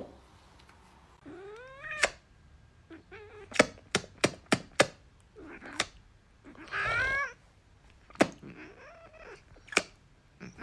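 A cat meowing three times, the middle meow the loudest, with several sharp taps or knocks in between.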